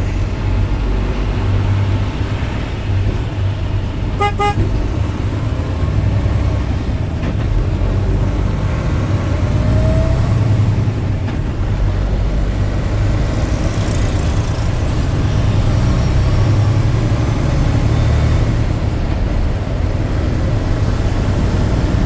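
Steady low rumble of road and engine noise inside a car's cabin as it moves along the highway. About four seconds in, a short pulsed beep from a vehicle horn or alarm sounds once.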